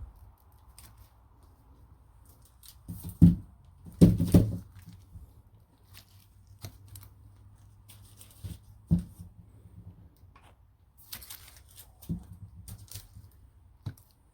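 Paper- and cardboard-wrapped firework shells being handled: rustling with a few dull knocks and thumps, the loudest about three to four and a half seconds in.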